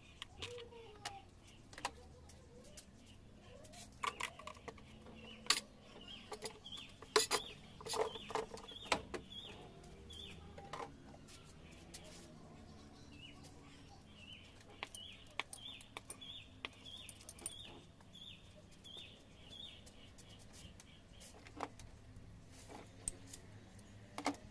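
A bird repeating the same short, high chirp about twice a second for much of the stretch. Over it come scattered sharp clicks and knocks, in a cluster a few seconds in and again near the end.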